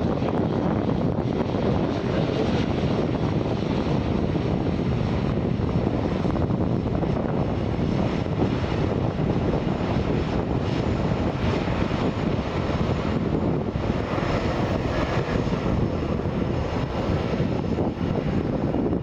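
Boeing 777's GE90 jet engines running, a loud, steady noise with no change in pitch.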